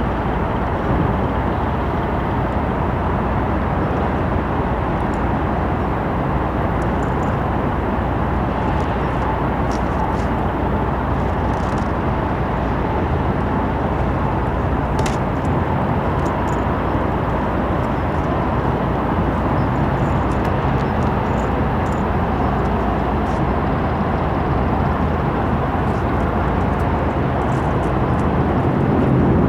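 A steady low engine drone under a constant rushing noise, unchanging throughout.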